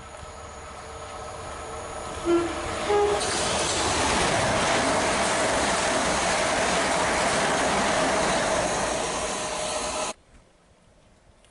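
A Gatwick Express Class 387 electric train sounds two short horn notes, the second higher, about two seconds in. It then passes at speed with a loud, steady rush of wheels on rail and air, which cuts off suddenly near the end.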